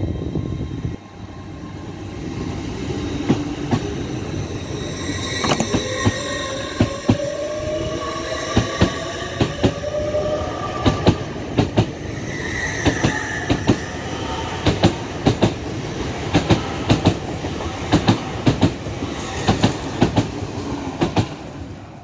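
LNER Azuma (Hitachi Class 800-series) train running close past on the track: its wheels click sharply in pairs over rail joints, over a steady rumble, and a rising whine sounds for a few seconds in the first half.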